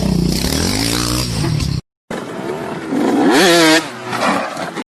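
Motorcycle engines accelerating in two short clips, each rising in pitch as it revs up, split by a brief silent cut; the second, steeper rise about three seconds in is the loudest.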